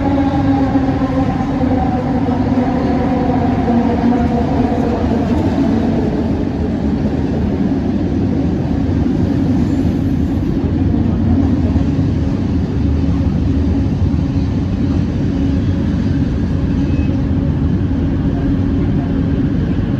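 Bombardier Innovia ART 200 light-metro train running, a steady rumble and rolling noise. Its motor whine falls in pitch over the first few seconds as the train slows, then the sound settles into an even drone.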